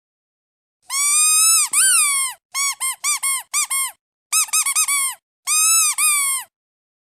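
Squeaky duck toy squeezed repeatedly: two longer squeaks, then two quick strings of short squeaks, then two more longer ones, each squeak rising and falling in pitch.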